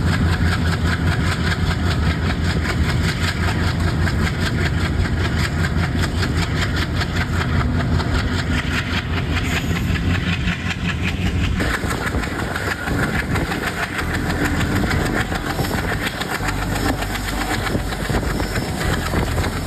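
Passenger train under way: the steady low drone of its twin ALCO diesel locomotives, mixed with the running noise of the coaches on the rails. About twelve seconds in the engine drone eases and the higher rolling noise comes to the fore.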